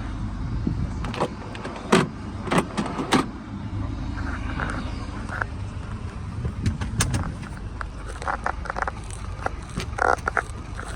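Scania R500 truck's diesel engine idling with a steady low hum, under a scatter of sharp clicks and knocks, a cluster of three about two to three seconds in and more near the end.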